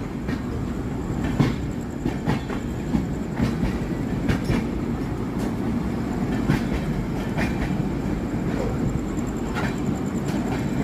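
Indian Railways Humsafar Express passenger coach running at speed, heard from inside: a steady rumble with irregular clicks of the wheels passing over rail joints.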